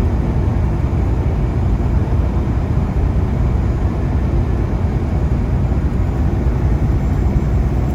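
Semi truck cruising on the interstate: a steady low drone of engine and road noise, with no distinct events.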